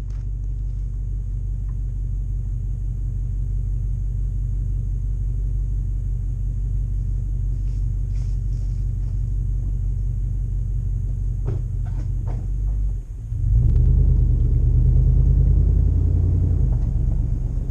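Toyota 100 Series LandCruiser's 2UZ-FE 4.7-litre V8 through a full exhaust, a steady low rumble. About 13 seconds in it dips briefly, then gets louder and fuller for about four seconds before settling back.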